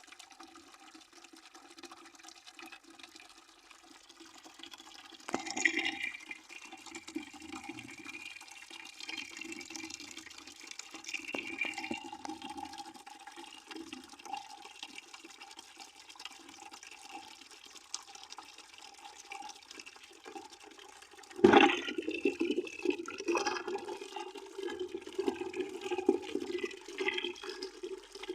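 Water pouring into a bucket: a continuous splashing gurgle with a steady ringing pitch to it. The flow jumps suddenly louder about five seconds in and again, more strongly, about 21 seconds in.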